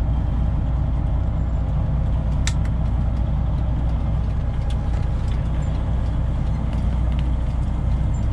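Straight-piped Detroit Diesel 12.7-litre engine of a Freightliner Classic XL semi truck idling steadily, with a single sharp click about two and a half seconds in.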